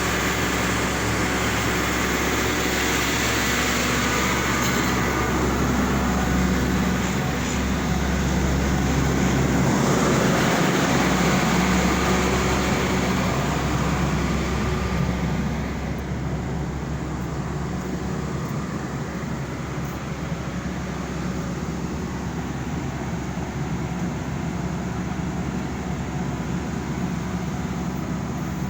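Steady mechanical hum of machinery running, louder for the first half and dropping to a lower level about halfway through.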